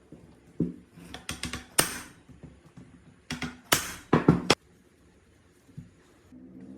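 Two bursts of sharp clattering knocks and clicks, like hand tools and parts of an old engine water pump being handled and set down, a few of them ringing briefly. Near the end a steady low hum starts.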